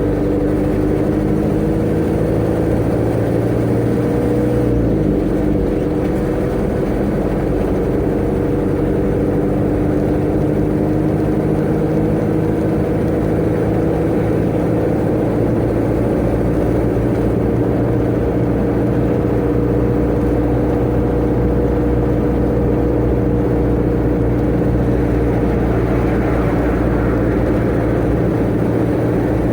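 Tata Ace mini-truck's engine droning steadily at high road speed, heard from inside the cab over road noise. The engine's pitch wavers briefly about five seconds in, then holds steady.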